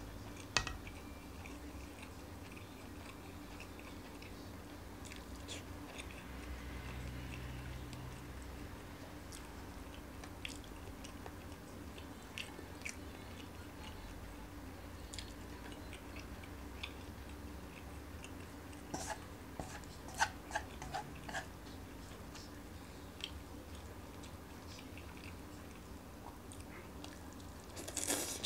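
A person chewing and biting mouthfuls of vegetable stir-fry, with scattered small clicks of wooden chopsticks, a cluster of them about two-thirds of the way in. Near the end there is a louder burst as a tangle of stir-fried lettuce is sucked into the mouth.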